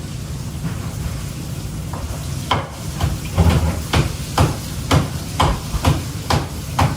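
About ten sharp knocks in a row, roughly two a second, starting a couple of seconds in, over a steady low hum.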